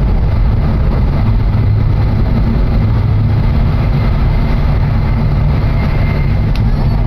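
Steady low rumble of a Hokuriku Shinkansen train running at speed, heard inside the passenger cabin.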